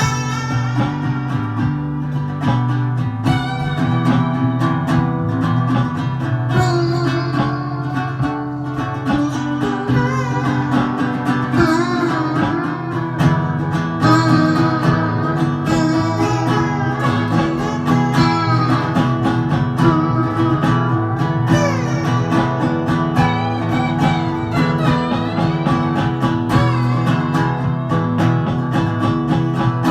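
Guitar music, an instrumental break of a song: plucked and strummed guitar over steady low notes, with a wavering, bending lead line through the middle.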